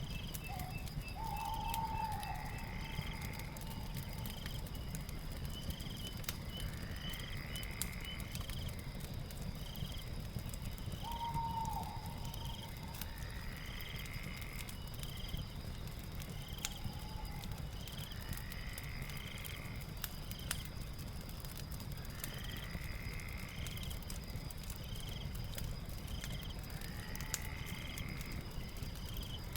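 Night ambience: steady insect chirping with animal calls recurring every few seconds, over a low fire rumble with scattered crackles.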